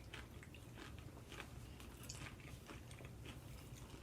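Faint chewing and crunching of peanut M&M's candies in the mouth, with a few soft crunches scattered through.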